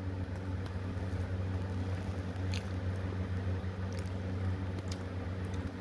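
A man chewing a mouthful of soft McGriddle pancake sandwich stuffed with peanut butter, close to the microphone, with a few faint wet mouth clicks over a steady low hum.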